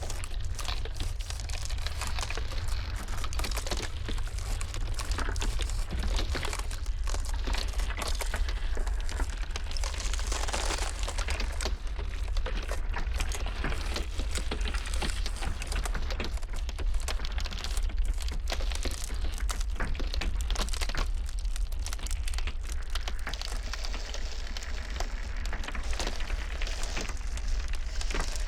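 Ice crackling and snapping in a dense, continuous stream of small cracks over a steady low rumble.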